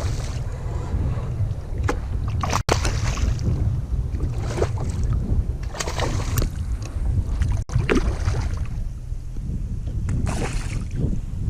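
Wind buffeting a GoPro microphone as a steady low rumble, with water splashing and sloshing against a kayak at irregular moments every second or two.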